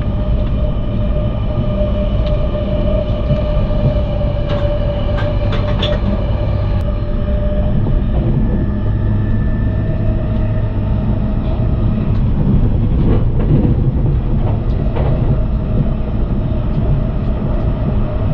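Interior running noise of an electric limited express train on the move, heard from inside the carriage. It is a steady low rumble with a faint steady hum over it, and clusters of short clicks from the wheels about five seconds in and again around thirteen seconds in.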